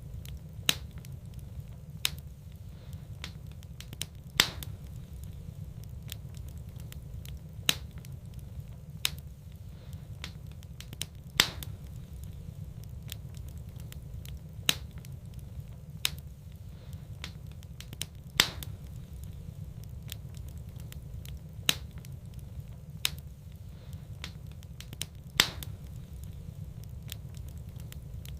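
Wood fire burning in a fireplace: sharp, separate crackling pops every second or two over a steady low rumble of the flames.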